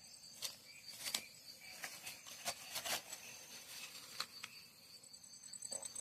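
Faint insects chirping steadily in high, thin tones, with scattered sharp clicks.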